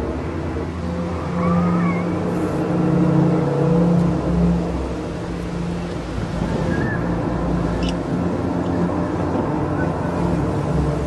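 A steady, low, horn-like drone of several held pitches over a low rumble, the kind of sound posted as 'strange trumpet sounds from the sky'; a few faint chirps sound above it now and then.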